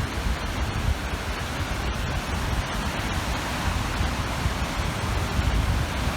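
Small waves washing steadily onto the shore, with wind gusting across the microphone as an uneven low rumble.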